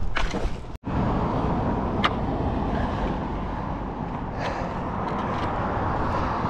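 A few footsteps, then after an abrupt cut about a second in, the steady low rumble of a motor vehicle running.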